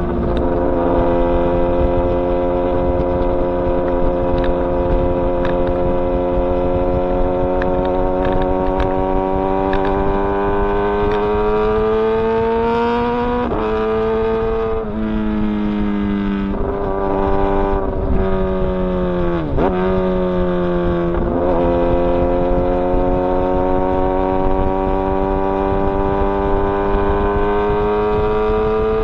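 Kawasaki ZX-10R's inline-four engine running under way, its pitch climbing slowly and steadily as it pulls in one gear. About halfway through the pitch steps up and down several times in quick succession as the gears change, then falls sharply and starts another long slow climb.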